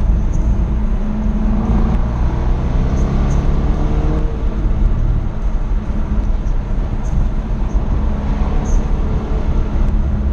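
Jaguar F-Type SVR's supercharged V8 driving hard, its revs rising and falling several times over a steady rumble of road noise.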